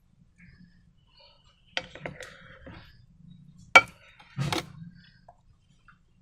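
A few sharp clicks and knocks from slime-making materials being handled: two near two seconds in, the loudest and sharpest just before the four-second mark, then a short rustling, squelchy burst just after.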